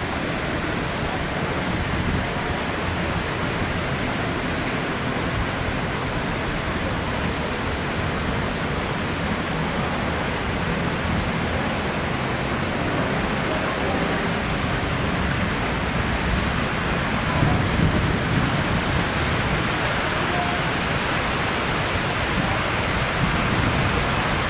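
Steady rushing of water flowing along an urban canal, an even hiss-like wash with no breaks.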